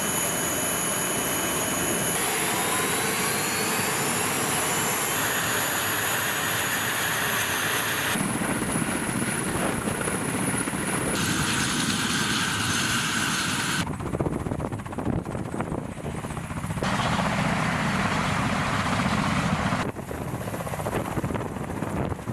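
Ka-52 attack helicopter's engines and coaxial rotors running, heard in a string of short clips that change abruptly every few seconds. A rising whine comes in about two seconds in.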